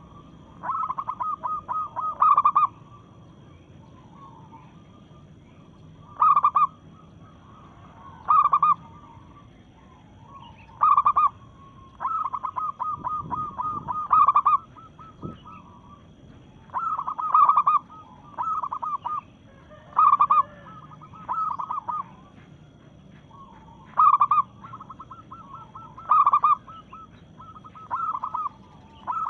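Zebra dove (perkutut), a female, calling: short coos and rapid stuttering trills, repeated every two to three seconds.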